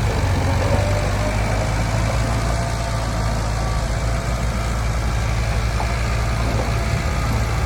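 Diesel engine of heavy earthmoving machinery running steadily, with a deep, even hum.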